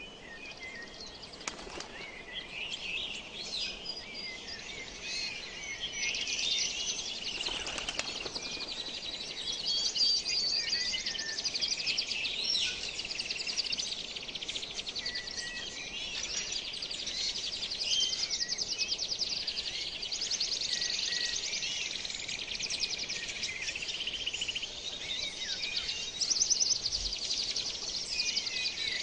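Many small birds chirping and singing at once: a dense, overlapping chorus of short chirps, whistles and fast trills.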